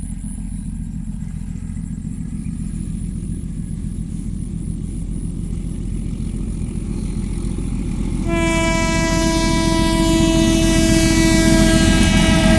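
Mahua Commuter train running with a low rumble that grows steadily louder, then the locomotive's horn sounds about eight seconds in, one long blast that is still going at the end.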